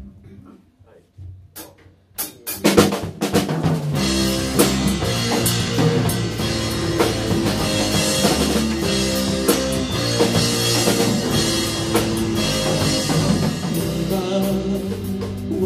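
A band playing an instrumental intro led by a drum kit with bass and other instruments. It comes in about two and a half seconds in, after a few sharp clicks, and plays on steadily.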